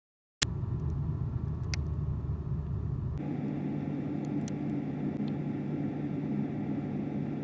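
Refrigerator running, heard from inside the fridge through a phone's microphone: a steady machine hum and low rumble that starts abruptly with a click. About three seconds in, the low rumble falls away and the hum shifts to a higher, steadier tone.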